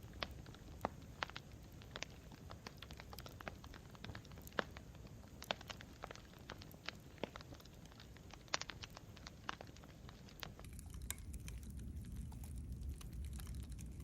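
Campfire crackling: irregular sharp pops and snaps over a low steady rumble. About ten seconds in, the rumble grows louder and the crackle turns finer and hissier.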